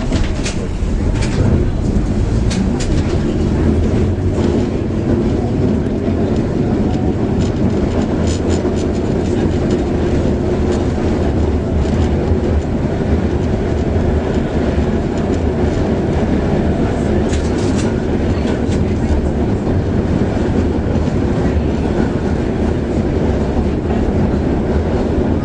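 Trolley car (streetcar) running on its rails: a steady low rumble with scattered clicks and rattles throughout.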